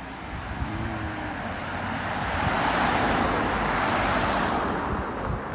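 A car passing close by on the road: its tyre and engine noise swell to a peak about halfway through, then fade away.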